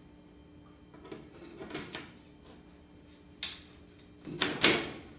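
Handling of a snare drum and its hardware: a few light rubbing and scraping sounds, a sharp click about three and a half seconds in, and a louder scrape near the end, over a faint steady hum.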